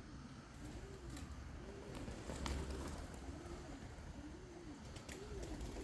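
Pigeon cooing: a low rising-and-falling coo repeated about once a second, six times, with a few faint clicks in between.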